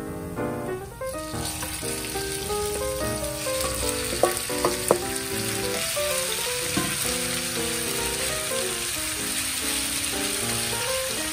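Minced chicken breast frying in hot oil in a cast-iron skillet, stirred with a wooden spoon. The sizzle starts about a second in as the meat goes into the pan and grows louder a few seconds later, with two sharp taps of the spoon against the pan near the middle.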